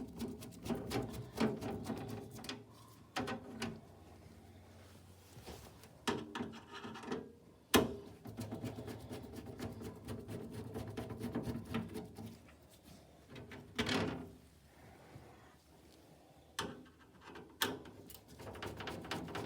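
Hand work on an old box fan: a screwdriver scraping and clicking as the back-panel screws come out, with irregular rubbing and a few sharp knocks of the fan's parts being handled.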